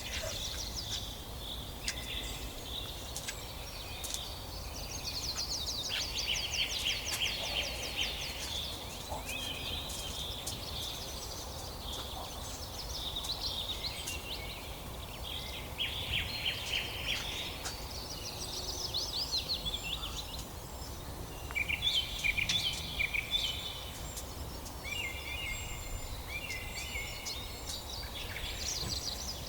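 Several birds singing and calling, with rapid trills and repeated high chirps, over a low steady rumble.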